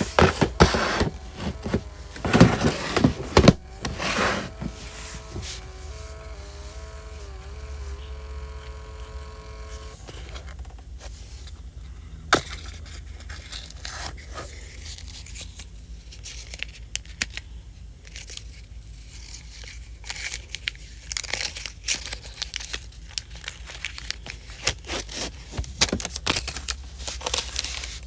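Paper rustling and tearing, then a small sticker printer whirring for about five seconds in tones that step up and down in pitch as it prints a label, followed by quieter scraping and scattered clicks of sticker paper being handled.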